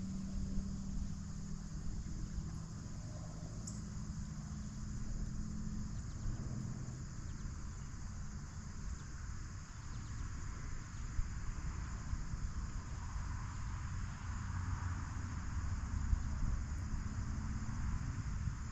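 Insects singing in a steady, high-pitched chorus over a low rumble.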